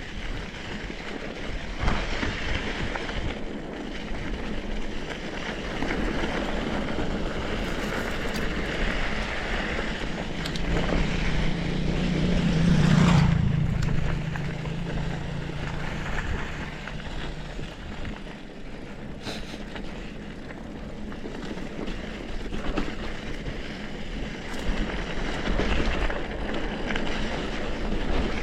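Noise of a mountain-bike ride: wind buffeting the microphone and the bike rattling over rough ground, with small knocks throughout. A low hum swells and fades about halfway through.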